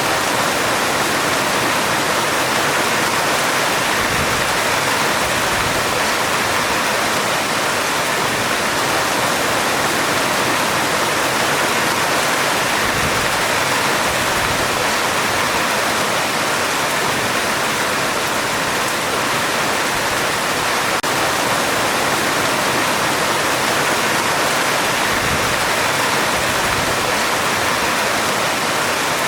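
Heavy rain falling on a metal roof, a steady dense hiss with no letup.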